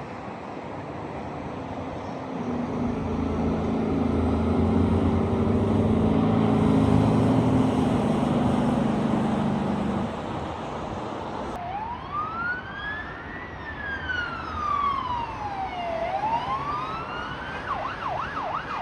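A heavy truck's diesel engine passes, growing louder and then fading over about ten seconds. Then an emergency vehicle siren wails, rising and falling slowly, switching to a quick fast yelp near the end.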